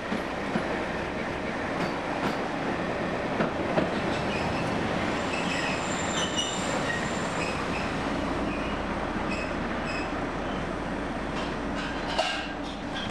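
Narrow-gauge (760 mm) passenger train rolling into a terminus, heard from inside an open carriage: steady wheel-on-rail running noise with a few short, high wheel squeals about halfway through.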